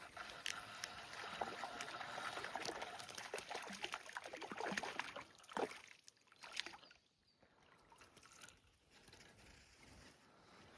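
Water splashing and trickling close by, busy with many small splashes for about the first five seconds, then quieter with a few scattered splashes.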